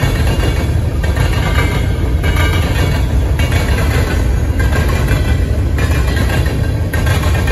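Covered hopper cars of a long freight sand train rolling past, a steady heavy rumble of steel wheels on rail with a swell and dip as the cars go by.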